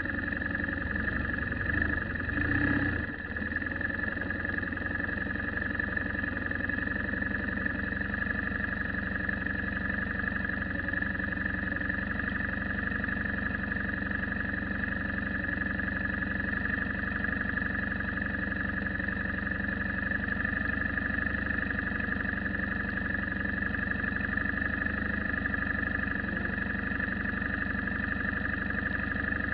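Vehicle engine running steadily, with a brief louder disturbance about two to three seconds in.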